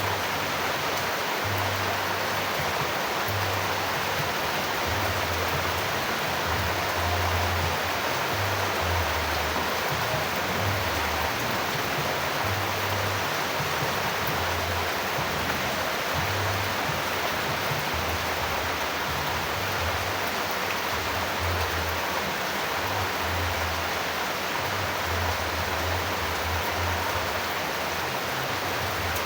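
Steady rain, an even, unbroken hiss, with a low, uneven rumble underneath.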